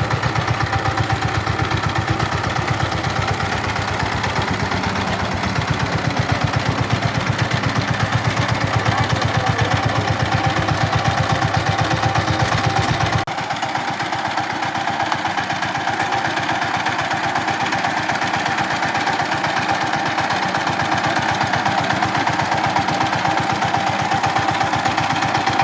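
Dongfeng 16 hp power tiller's single-cylinder diesel engine running steadily with regular, evenly spaced firing beats. About halfway through, the sound changes abruptly and loses its deep low end.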